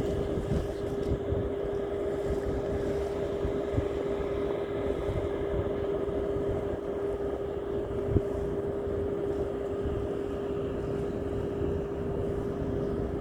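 A steady, even motor hum with wind buffeting the microphone, and a single short knock about eight seconds in.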